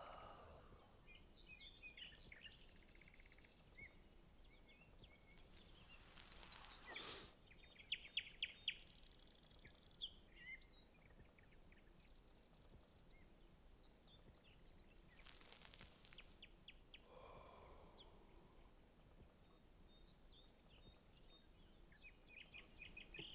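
Faint wild birdsong: scattered high chirps and short trills over quiet outdoor ambience, with a louder run of quick notes about eight seconds in. Two brief soft swells of hiss come and go.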